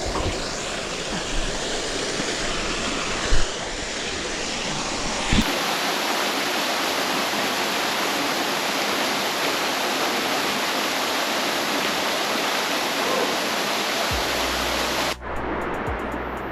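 Waterfall close by, a steady dense rush of falling water, with a couple of knocks in the first few seconds. Near the end the sound changes abruptly to a thinner noise with a low steady hum.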